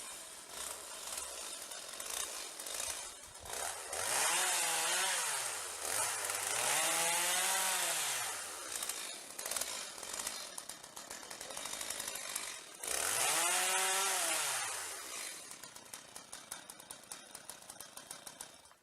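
Chainsaw running, revving up three times with the pitch climbing and falling back, lower running between the revs, and slowing to an uneven idle near the end.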